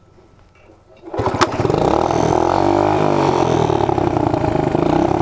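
Honda CT70 mini bike's small single-cylinder engine coming in suddenly about a second in and running hard at high throttle, with a sharp knock just after it starts and a brief dip and rise in pitch near the middle.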